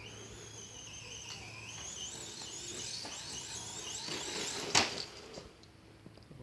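Small electric motor of a toy monster truck whining, its pitch wavering and climbing over several seconds, then a single sharp knock about five seconds in.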